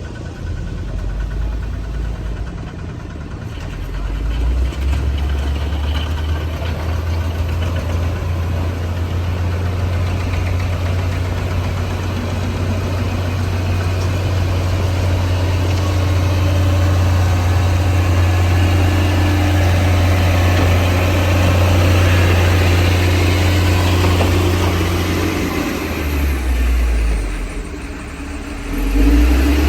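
Bulldozer's diesel engine working, a steady low drone that grows louder about four seconds in, falls off and shifts pitch a few seconds before the end, then picks up again.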